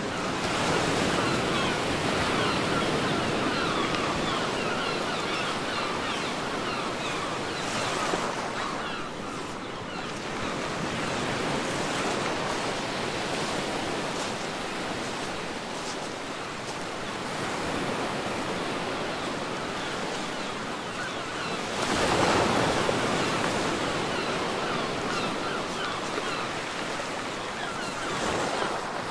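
Waves breaking and washing up a beach, swelling and falling back every several seconds, the biggest surge about three-quarters of the way through.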